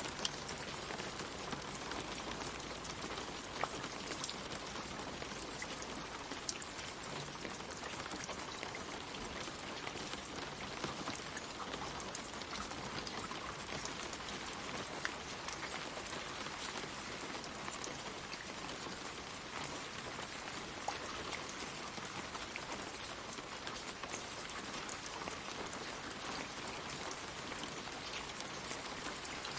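Gentle rain falling on leaves: a steady, even hiss of rainfall with many single drops ticking close by, a few of them louder.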